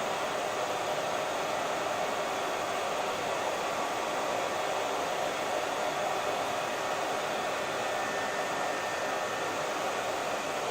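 Hair dryer running steadily, an even rushing of blown air with the motor's whir.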